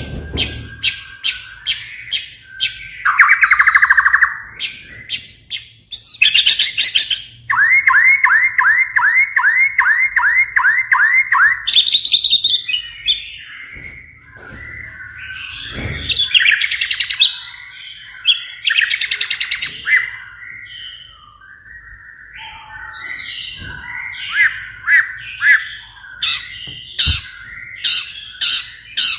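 White-rumped shama calling: sharp crackling ticks and harsh buzzy chatter (the 'kretekan' rattle) mixed with a run of repeated rising whistled notes in the middle, then more clicking chatter near the end.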